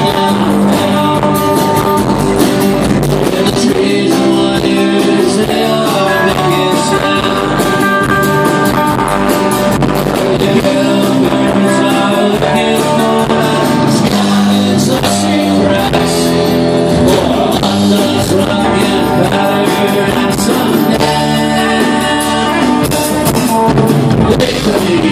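Live band music: guitars and a drum kit playing a passage between sung verses.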